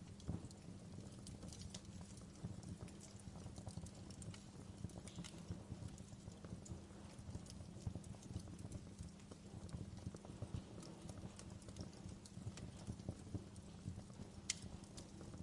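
Wood fire crackling: a steady scatter of small irregular pops and snaps, with a sharper pop near the end, over a low steady rumble.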